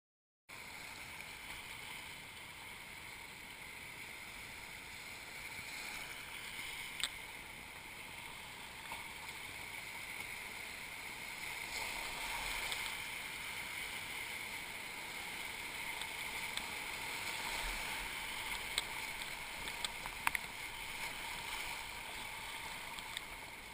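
Steady rush of moving river water through rapids, with a few sharp clicks and knocks standing out.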